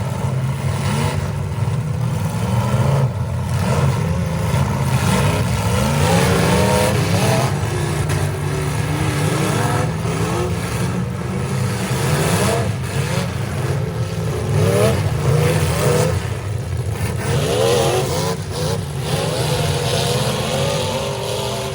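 Several demolition derby cars' engines running and revving at once, their pitches repeatedly rising and falling as the drivers throttle up and back off.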